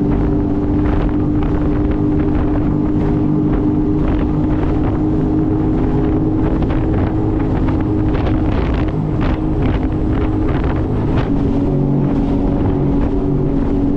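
Sea-Doo FishPro jet ski engine running at a steady cruising speed, with wind rushing over the microphone that grows heavier for a few seconds in the middle.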